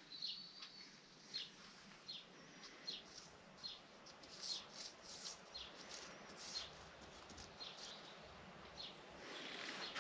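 Small birds chirping faintly: short high chirps, about one or two a second, over a faint steady hiss.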